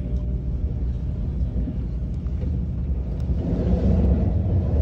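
KTX high-speed train running, a steady low rumble heard inside the passenger cabin with a faint steady whine above it, growing a little louder about three and a half seconds in.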